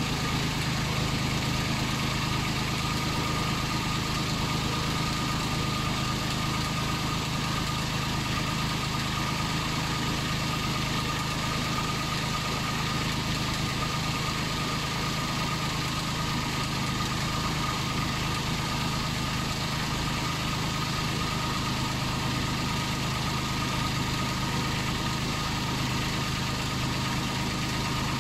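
Toyota Aygo's 1KR-FE three-cylinder petrol engine idling steadily, run after fitting an oil cooler kit to check the new hoses and sandwich plate for leaks.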